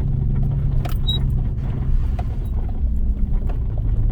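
Vehicle cabin noise while driving slowly on a dirt trail: a steady low engine and road drone, with scattered short clicks and rattles.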